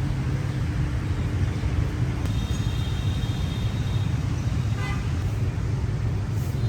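Riding pillion on a motorbike through busy city traffic: a constant low rumble of engines and road noise, with a vehicle horn sounding for about two seconds a couple of seconds in.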